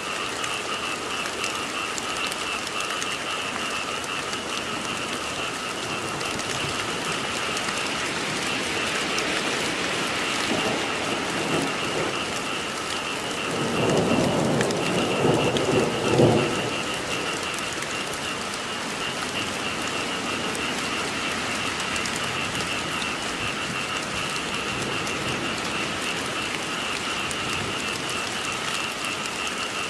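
Steady rain falling, with a frog chorus calling in two steady high-pitched bands. Thunder rumbles low for a few seconds about halfway through.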